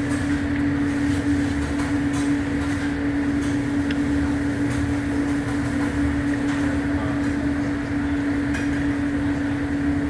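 A steady mechanical hum with one constant pitch over a low rumble, like a fan or motor running, with a few faint clicks and clinks of tableware.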